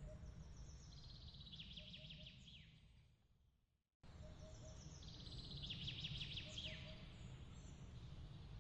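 Faint looped night ambience: a quick chirping trill with a few falling notes over a low steady rumble. It fades out to silence a little over three seconds in, then cuts back in, and the same chirping repeats.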